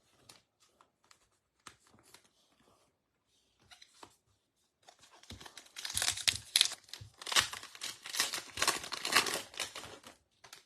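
A trading card pack's wrapper being torn open and crinkled. Light handling clicks come first, then about five seconds in a loud stretch of tearing and crinkling that lasts about five seconds.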